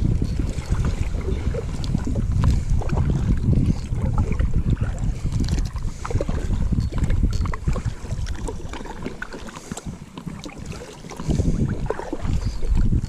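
Wind buffeting the microphone on a kayak, with scattered light knocks and water sounds from the boat. The rumble eases for a few seconds about two-thirds of the way through, then picks up again.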